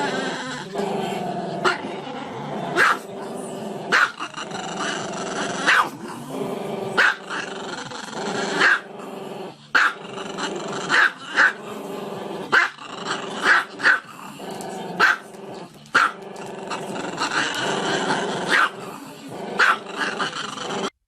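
A dog growling steadily, breaking into sharp barks about once a second.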